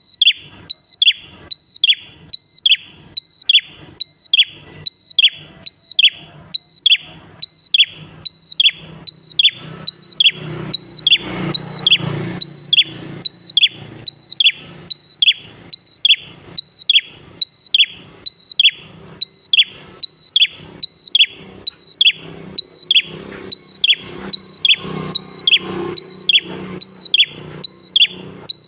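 Prinia singing, a fast, even series of sharp high whistled notes, each dropping steeply in pitch, about two a second. A faint low rumble rises in the background twice.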